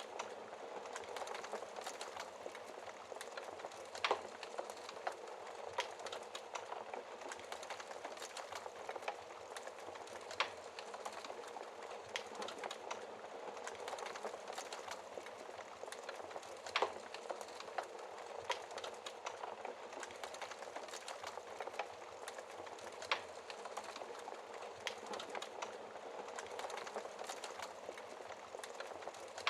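Wood fire burning in a fireplace, heard through its glass door: a steady soft hiss with scattered small crackles and a few sharper pops, about one every six seconds.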